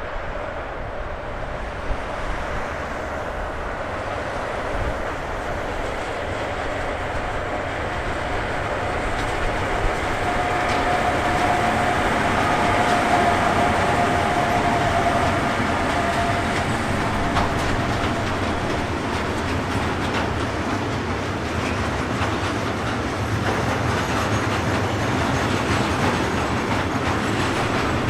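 A train rolling past on the track, its wheels clattering over the rails, growing louder towards the middle and staying loud to the end, with a thin whine for several seconds around the middle.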